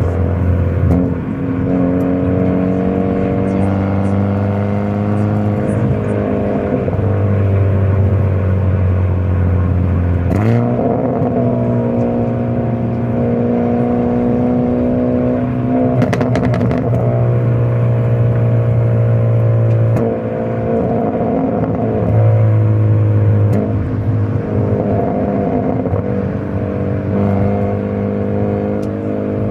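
Hyundai Avante N's turbocharged four-cylinder engine and exhaust under way in N mode. The engine note holds steady for stretches, then steps in pitch several times as gears change, with a sharp jump about a third of the way in.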